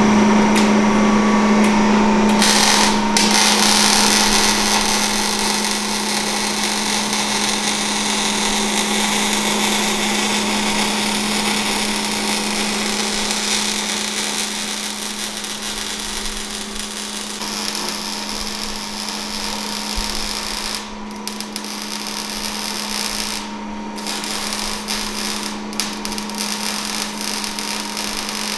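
Exhaust-shop power tool work on a muffler delete: a steady noisy hiss over a constant low hum, with the tool stopping briefly a few times near the end.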